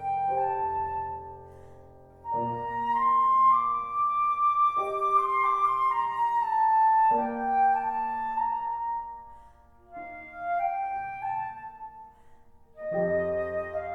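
Transverse flute and piano playing a slow classical piece: the flute holds long sung-out notes over piano chords struck every few seconds, fading quieter twice before new chords enter.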